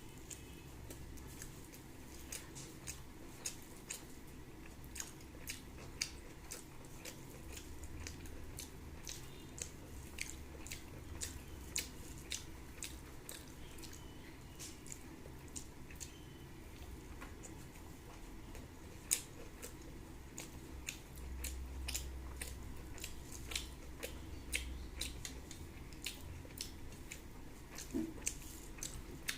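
A person chewing food close to the microphone, with many small irregular wet mouth clicks and smacks, several a second.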